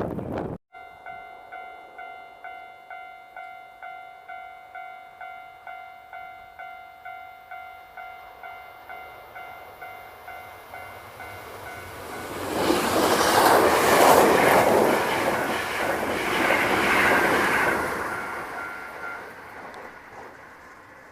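Japanese level-crossing warning bell ringing, an electronic ding about twice a second. About halfway through, a Hankyu electric train passes the crossing, its wheels clattering over the rail joints, loudest for a few seconds, then fading. The bell fades out with it near the end.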